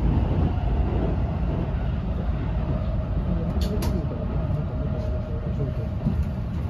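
Ride noise inside a moving train: a steady low rumble of wheels on rails with a faint steady whine, and two sharp clicks about three and a half seconds in.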